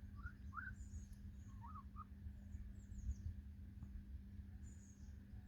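Hens making a few soft, short rising calls in the first two seconds, with high thin chirps of small wild birds now and then and a steady low rumble underneath.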